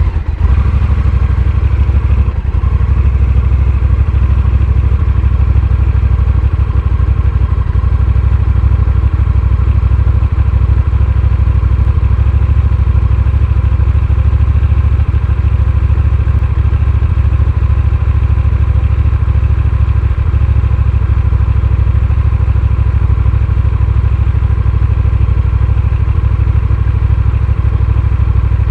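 Honda Rebel 1100's parallel-twin engine running steadily and loudly, with no revving up or down.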